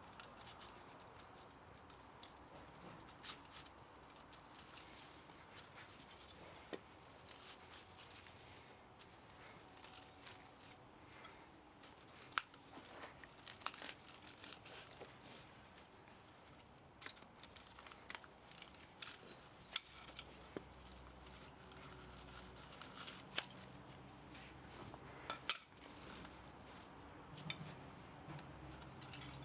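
Irregular snips, clicks and scrapes of hand tools working on an electric pump motor being stripped for scrap metal, at a low level. A faint low hum comes in about two-thirds of the way through.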